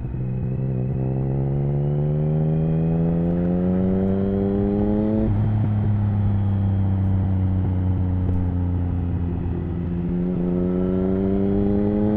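Triumph Speed Triple 1050's inline-three engine through an HP Corse Hydroform exhaust, rising in revs under acceleration for about five seconds, dropping sharply at an upshift, holding steady revs for several seconds, then climbing again near the end.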